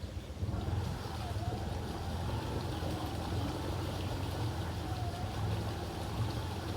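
Can-Am 700 XMR ATV engine running under way, a steady low drone with a whine that rises and falls as the throttle changes.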